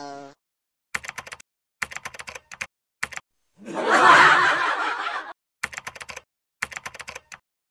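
Short clusters of rapid sharp clicks separated by silence. A louder noisy rush lasting about a second and a half comes about four seconds in.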